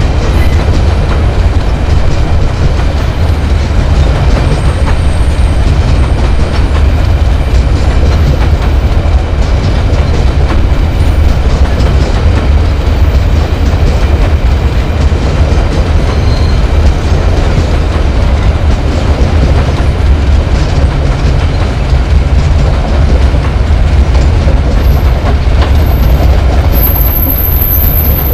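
Long Babaranjang coal train of hopper wagons rolling past on a curved track: a loud, steady, heavy rumble of wheels on rail. A thin, steady high tone comes in near the end.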